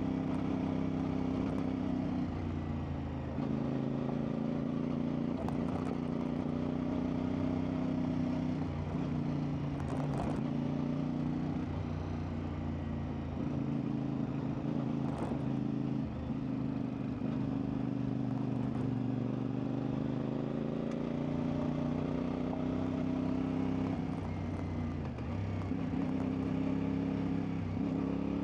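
CFMoto 450MT parallel-twin engine running steadily while being ridden off-road, its revs rising and falling gently with the throttle. A few sharp knocks sound over it, about ten and fifteen seconds in.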